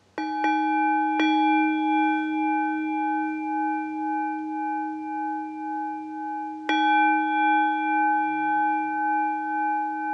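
Singing bowl struck twice near the start and again about seven seconds in, each strike leaving a long ringing of several steady tones with a slow wavering pulse.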